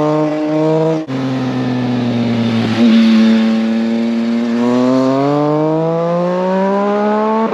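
Yamaha MT-09's CP3 three-cylinder engine running through a Leo Vince aftermarket exhaust. The note breaks off abruptly about a second in, then dips slightly and climbs steadily in pitch through the second half as the engine revs up.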